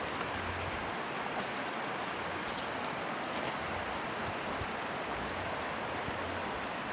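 Steady rushing noise at an even level, with no distinct sounds standing out.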